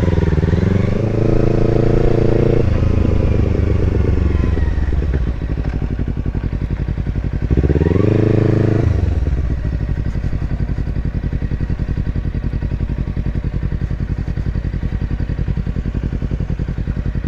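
Kawasaki Versys X300's parallel-twin engine at low speed, revving up in a low gear twice, near the start and about 8 seconds in, then running steadily at low revs.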